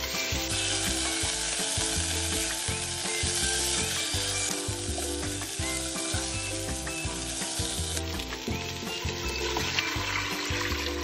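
Raw chicken wing pieces sizzling in hot oil and sautéed spice paste in a pot as they are stirred with a silicone spatula. The sizzle thins about eight seconds in, and near the end water is poured into the pot.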